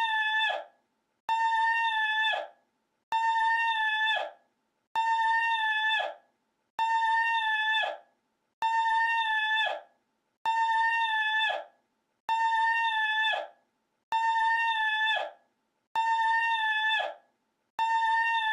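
A single recorded call, looped: a held, steady pitched note about a second long that drops in pitch as it ends, repeated identically about every 1.8 s with silence between, about ten times.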